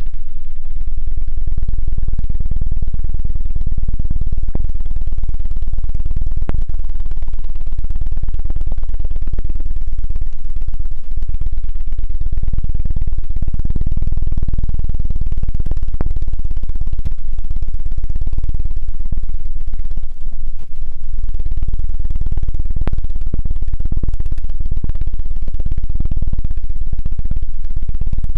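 ASMR "helicopter" ear-cleaning trigger: fast, loud low pulsing made right on the binaural microphone's ear, imitating a helicopter rotor. It keeps going almost without a break, with one brief dip past the middle.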